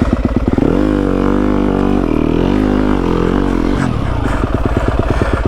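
Yamaha WR250F's single-cylinder four-stroke engine pulsing at low revs, then revved up and held for about three seconds with the pitch wavering, before dropping back to a slow, even beat.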